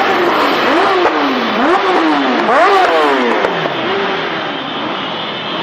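Motorcycle engines revving, their pitch climbing and dropping several times in quick succession before settling, over street noise.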